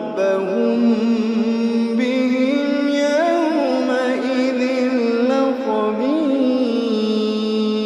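A solo voice in melodic Quran recitation, holding long, ornamented notes that slide between pitches.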